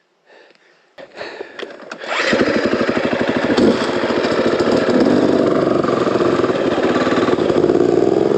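Dirt bike engine cutting in abruptly about two seconds in, after a few light clicks and rustles, then running steadily with a fast, even beat.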